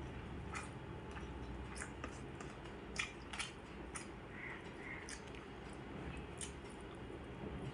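Quiet eating sounds: soft chewing with light clicks and taps every second or so, over a steady low hum.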